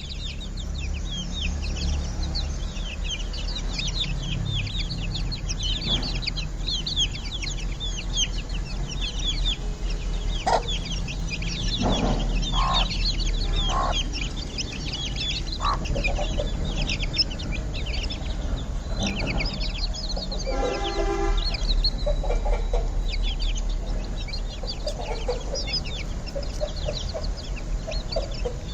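A group of Aseel chicks peeping constantly, many short high peeps overlapping, with a few lower calls now and then and a steady low rumble underneath.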